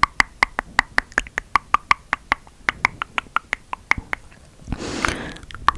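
Rapid tongue clicking, about five crisp clicks a second, each with a short hollow ring whose pitch shifts as the mouth changes shape. The clicking breaks about five seconds in for a brief breathy rush, then starts again.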